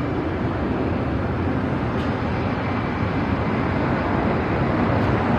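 Jet engines of a Boeing 777-300ER airliner, a steady deep rumble with faint engine tones that slowly bend in pitch, growing a little louder towards the end.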